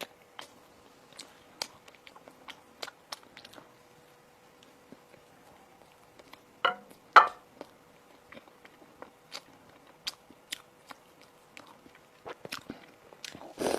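Close-up eating sounds: a person biting and chewing food, with scattered sharp crunchy clicks and two louder bites a little past halfway. A faint steady hum runs underneath.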